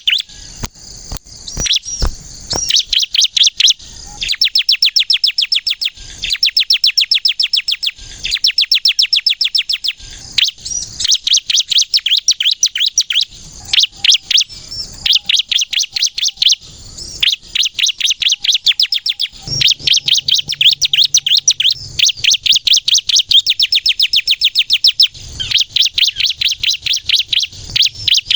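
Bar-winged prinia (ciblek) singing loudly and continuously: bursts of rapid, high-pitched chattering chirps, each lasting a second or two, with brief pauses between them.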